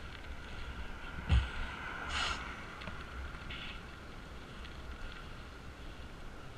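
Wind buffeting the camera microphone and a steady low rumble while riding a bicycle along a road, with a short low thump about a second in and a brief hiss just after.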